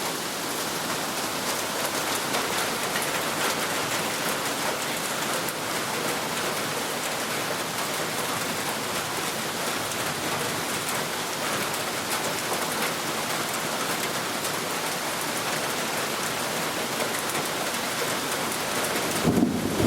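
Steady rain falling, an even hiss with no let-up. At the very end a short, louder, lower sound breaks in.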